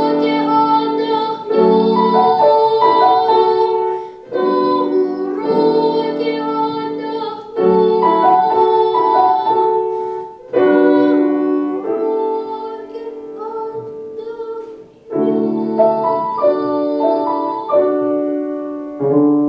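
Piano playing a piece in short phrases of chords and melody, each phrase struck sharply and then fading before the next.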